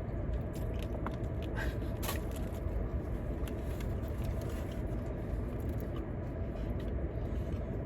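Steady low rumble of a car idling, heard from inside the cabin, with scattered small clicks over it.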